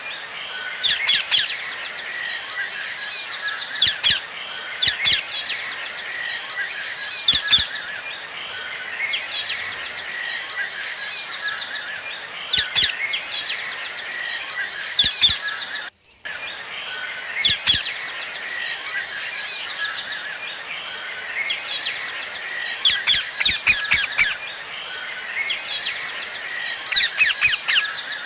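Birds chirping in quick trilled series over a steady twittering background, with occasional sharp clicks and a brief cut to silence about halfway through.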